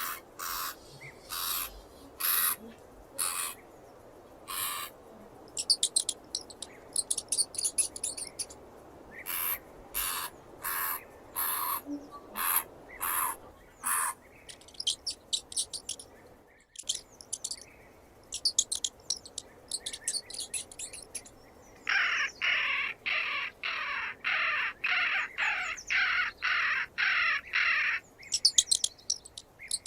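Hamster squeaking in short, high calls, with bursts of fast, very high clicking between them. Near the end comes a run of about a dozen louder squeaks at about two a second.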